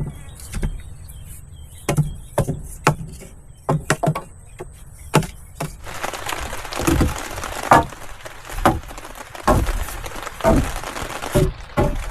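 Irregular sharp knocks and cracks of wood being worked, as in chopping or snapping sticks. From about six seconds in, a steady hiss runs under the knocks.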